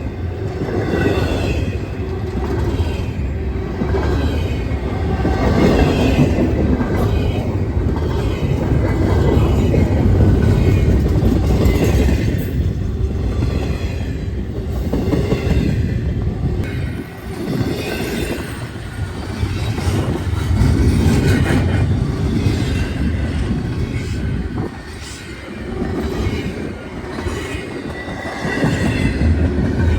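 A train passing close by, its steel wheels running on the rails with a heavy low rumble that swells and dips several times.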